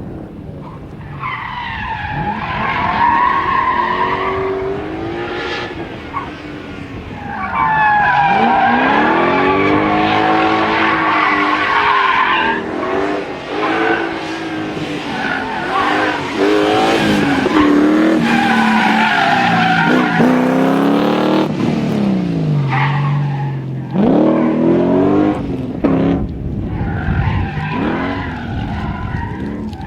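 Drift car sliding, its tyres squealing in several long stretches while the engine revs rise and fall again and again.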